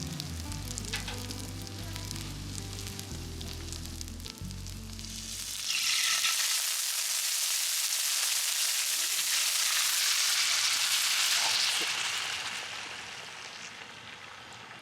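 Food sizzling hard on a hot griddle pan, a loud frying hiss that starts suddenly about six seconds in, holds for several seconds, then dies down.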